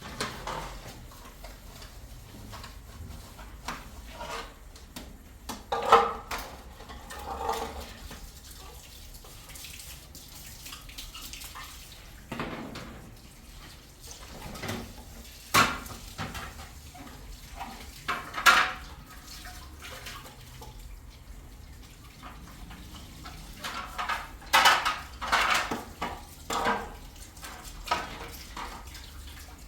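Washing up by hand: hard kitchen items knocking and clattering, with water splashing and dripping. The knocks come now and then, with a cluster of several near the end.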